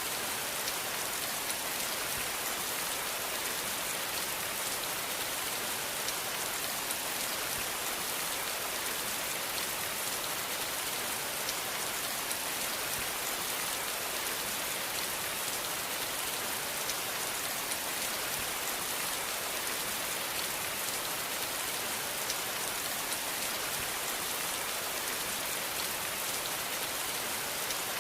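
Steady rain falling, an even hiss of many drops with fine scattered patter. It keeps the same level throughout, with no thunder heard.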